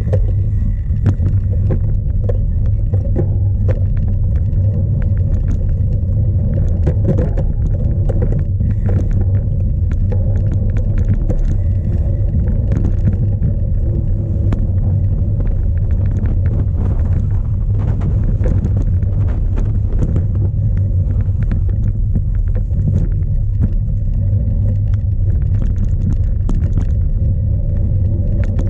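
Steady low rumble of strong wind and tyres on a camera mounted on a Bianchi Zolder Pro cyclocross bike racing over rough ground, with many sharp rattles and knocks from the bike jolting.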